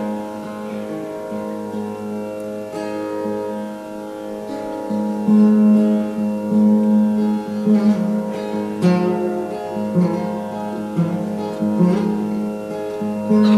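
Live instrumental music: plucked acoustic guitar over steady held tones, with no singing, the sound filling out and growing louder about five seconds in.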